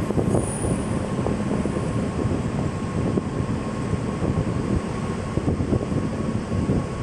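Indian Railways train running on the rails: a steady low rumble with rapid rattling and clatter from the wheels and carriages, and a faint steady high whine over it.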